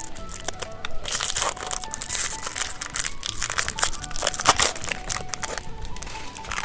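Crinkly plastic snack wrapper being torn open and handled, in dense crackling bursts over light background music.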